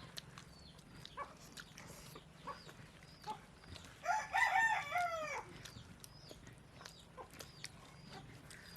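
A rooster crowing once, one drawn-out cock-a-doodle-doo of about a second and a half, about four seconds in, its pitch sliding down at the end. Faint scattered clicks and small high chirps around it.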